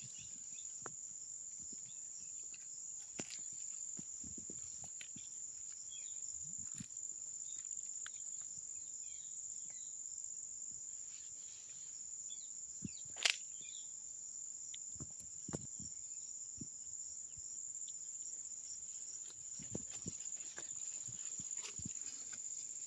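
Insects droning steadily at a high pitch, with scattered faint rustles and clicks and one sharp click about thirteen seconds in.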